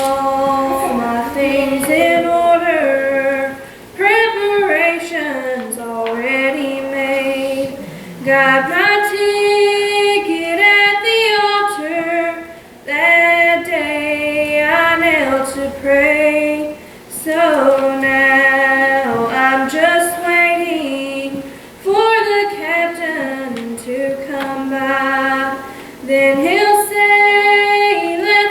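A woman singing a gospel hymn unaccompanied, in slow, drawn-out phrases of two or three seconds, with short breaths between them.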